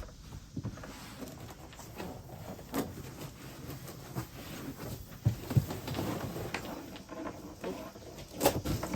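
Irregular handling noises: rustling, taps and a few sharp knocks as a Bedrug liner adhesive piece is pressed together and fitted against the truck bed. The loudest knocks come about five and a half seconds in and near the end.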